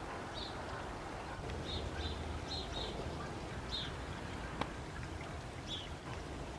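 A small bird giving short, high chirps every second or so at irregular spacing, over a steady low background rumble, with one sharp click near the end.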